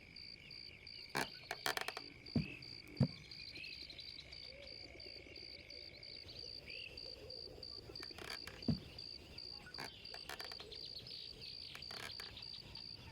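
Insects trilling outdoors in a steady, rapid high pulse, with a second, lower continuous trill that stops about six seconds in. A few sharp clicks and short low thuds are heard over it.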